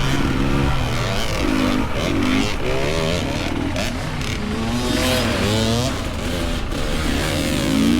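Several dirt bike engines revving, their pitch rising and falling over and over as the riders work the throttle on the trail.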